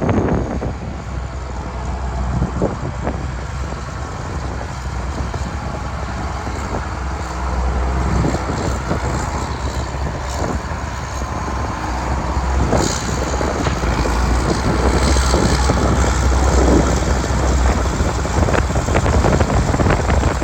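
Case IH 7140 Magnum tractor's six-cylinder diesel engine running steadily, with a deep rumble, growing louder in the second half, with wind noise on the microphone.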